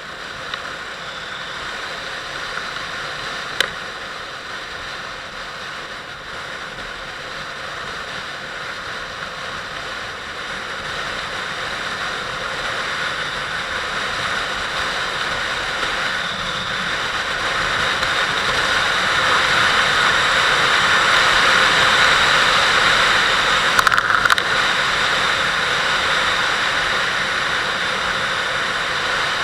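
Wind rushing over the camera microphone on a moving Kawasaki Vulcan 800 motorcycle, with the bike's running mostly buried under it. The rush grows louder over about twenty seconds, then eases slightly. A few brief knocks come through.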